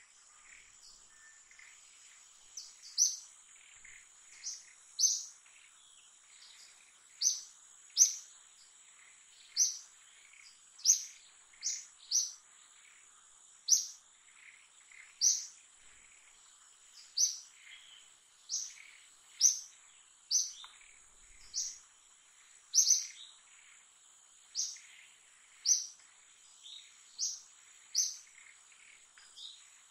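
A bird repeating a short, sharp, high-pitched chirp over and over, roughly once a second, over a faint steady high drone of insects.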